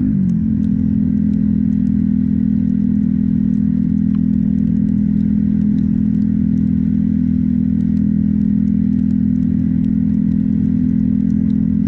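Motorcycle engine running steadily at a constant speed, its pitch holding level, with scattered faint ticks over it.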